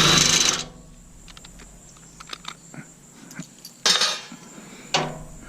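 Metal tools clinking and rattling as they are handled, likely steel sockets being sorted to fit a bolt, with a loud clatter at the start and another about four seconds in.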